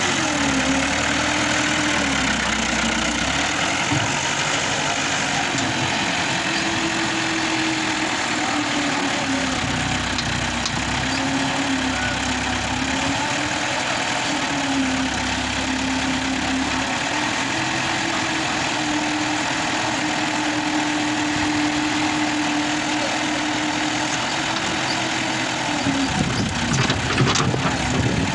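New Holland 640 tractor's diesel engine running, its pitch sagging and recovering every few seconds as the backhoe hydraulics load it. Near the end it gets louder, with a few knocks.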